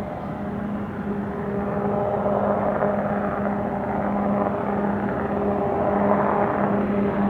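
Aircraft engines running at the airport: a steady noise with a low humming tone, growing somewhat louder about two seconds in.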